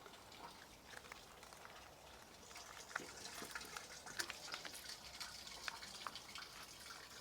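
Faint water trickling and dripping, with many small ticks, that gets busier about halfway through: water running back down the pipes after the supply has been shut off.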